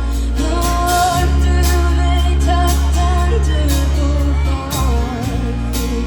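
Live rock band playing a song, with a singer over a steady bass and regularly struck drums and cymbals.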